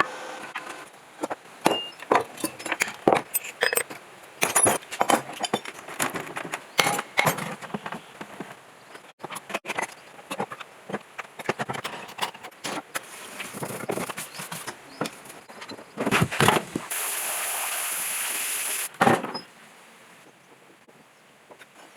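Workshop work on metal parts: many short metallic clinks and knocks, then a steady hiss lasting about two seconds near the end.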